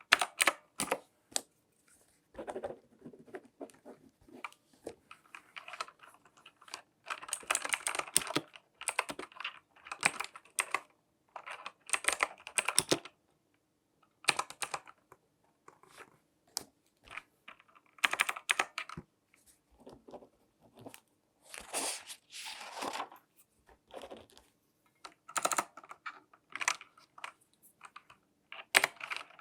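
Close-up handling sounds of latex-gloved hands: irregular taps, clicks and scratchy rustles in short bursts, with brief pauses between them.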